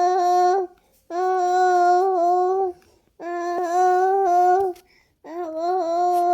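A baby singing to itself in long, steady held notes of about a second and a half each, with short pauses for breath between them.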